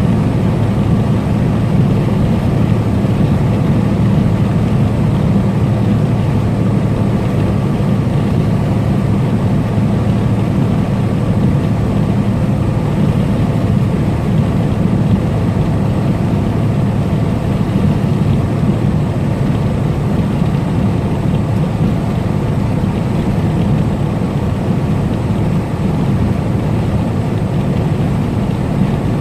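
Semi truck's diesel engine droning steadily with road and tyre noise while cruising at highway speed, heard from inside the cab.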